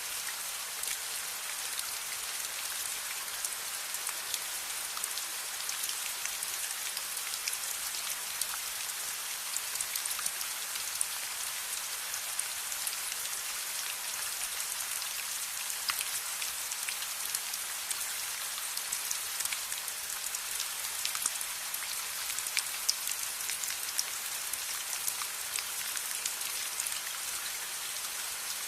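Steady rain falling on a surface: a dense, even hiss sitting high in pitch, scattered with many sharp ticks.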